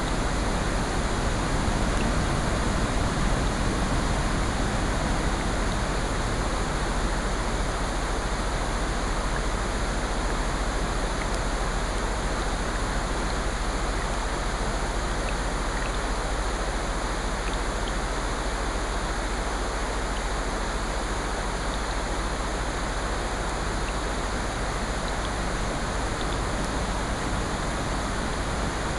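Steady rain and ocean surf blended into an even, unbroken hiss, swelling slightly a couple of seconds in, with a few faint scattered ticks.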